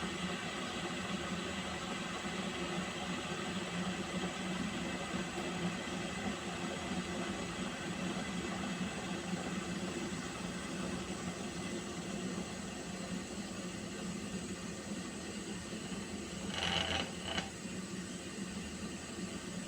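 Pot of water heating on the stove, a steady hissing hum as it comes toward the boil, with a short louder burst about three-quarters of the way through.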